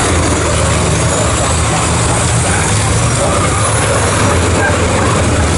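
Racing trucks' diesel engines running at speed as a pack goes by, a loud steady mix of engine and road noise.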